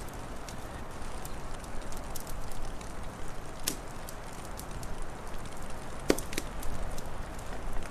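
Wood fire crackling: scattered small snaps over a steady hiss, with a louder pop about six seconds in.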